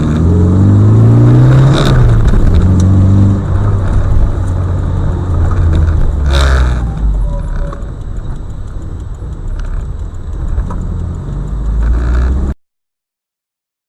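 Car engine running and revving, rising in pitch over the first two seconds and then holding steady. About six and a half seconds in there is a sharp burst of noise, and the sound cuts off suddenly near the end.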